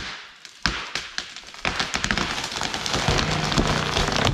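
Wood crackling and snapping: a couple of sharp cracks, then from about a second and a half in a dense, growing run of snaps and pops, as the freshly cut trees begin to give way and go over.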